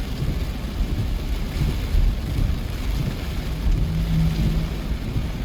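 Steady hiss of rain with wind rumbling unevenly on the microphone, and a short low hum a little under four seconds in.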